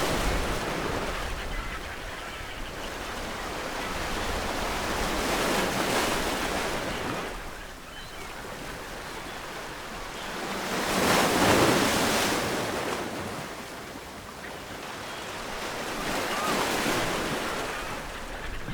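Ocean waves breaking on a shore, each wave swelling and fading in a wash of surf, about every five to six seconds, the loudest about halfway through.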